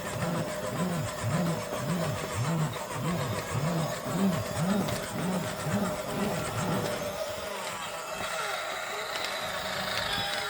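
Engine cranking sound, a low whirr that swells and falls in regular strokes about twice a second for some seven seconds, then stops.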